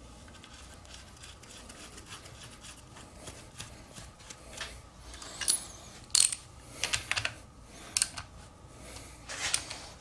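Metal parts of a Logan lathe being handled and fitted by hand: light scraping, then from about halfway a run of sharp metallic clinks and taps.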